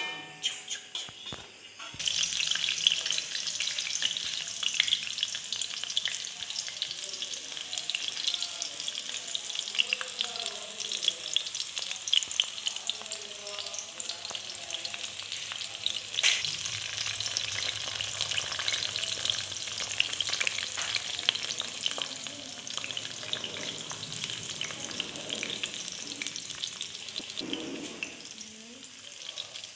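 Shallots frying in hot oil in a wok, a steady sizzle with dense crackling, starting about two seconds in.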